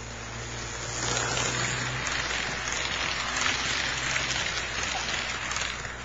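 An Athearn HO-scale F7 model diesel and its passenger cars running close past, with wheels clattering on the rails over a steady low motor hum. The noise swells about a second in and drops away near the end.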